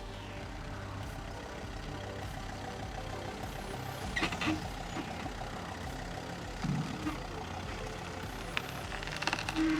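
A Volvo XC70's engine running slowly as the car creeps down small ramps, with a few knocks about four seconds in and clicks near the end.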